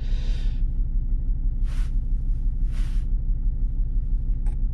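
Diesel engine idling steadily with an even, fast pulse, and a few short hissing sounds over it.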